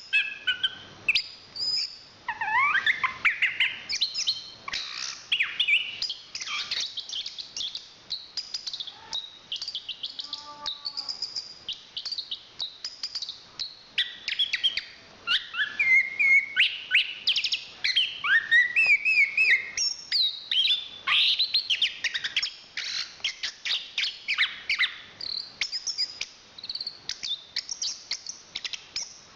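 Chestnut-capped thrush (anis kembang) singing a long, unbroken song of rapid chirps, trills and quick rising and falling whistled notes, high and fast-changing.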